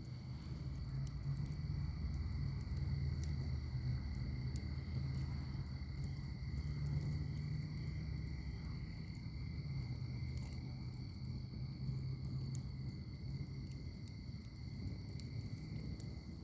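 Wood fire in a fire pit crackling, with small scattered snaps over a low rumble. A steady high insect trill, like crickets, runs under it.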